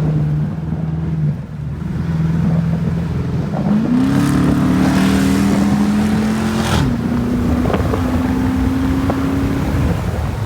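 A 2012 Dodge Charger R/T's HEMI V8 pulls hard through a straight-piped exhaust, its resonator and mid-muffler deleted and the cats left on. The revs climb from about four seconds in, drop sharply on an upshift near seven seconds, then build again.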